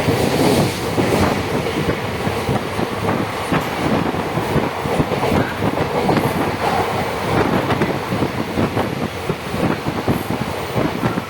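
Passenger express train running at speed, its wheels clattering rapidly and irregularly over rail joints over a steady rumble of the coaches.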